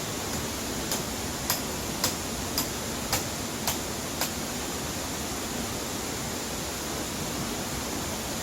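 A steady rushing noise, with a run of seven sharp clicks about half a second apart in the first half.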